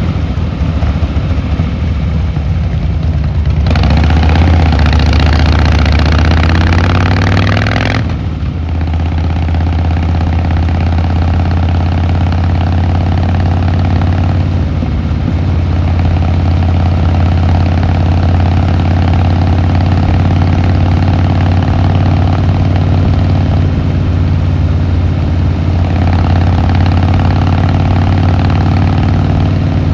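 Harley-Davidson Fat Boy Lo V-twin engine and exhaust on the road. It runs low and steady at first, pulls harder with rising pitch from about four seconds in, and dips briefly around eight seconds in, as at a gear change. It then cruises at a steady pitch for the rest of the time.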